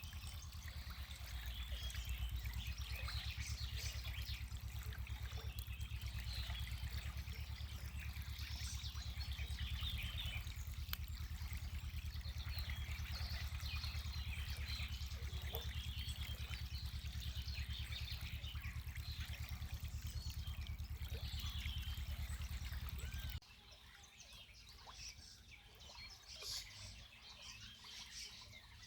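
Small birds chirping and singing over the steady low murmur of a spring's flowing water. The water sound cuts off suddenly about 23 seconds in, leaving the birdsong alone and quieter.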